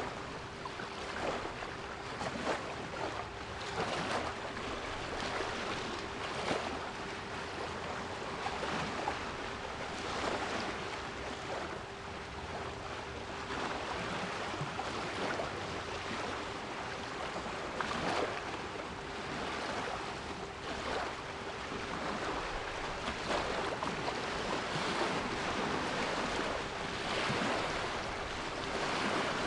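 Sea waves washing in continuously, an even rushing surf that swells and eases every second or two, with a steady 396 Hz pure tone held underneath it.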